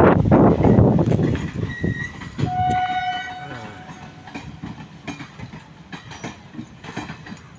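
Passenger train coaches rolling past, loud at first and fading, with the wheels clicking over rail joints. A single-note horn sounds for about a second near the middle.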